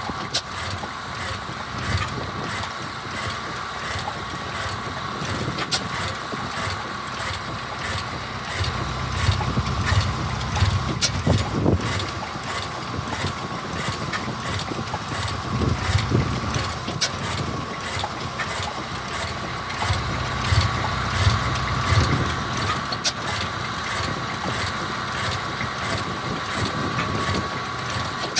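Vintage stationary engine running steadily, with a regular beat of sharp clicks about two a second.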